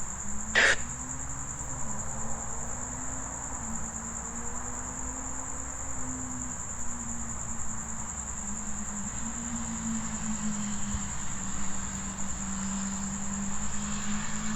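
Crickets trilling steadily at a high pitch, with a low wavering hum underneath and a single brief click about half a second in.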